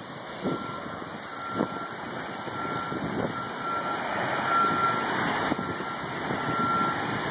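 Heavy rain and wind from a thunderstorm, a steady rush that builds from about halfway through. A short high electronic beep repeats over it, like a reversing alarm.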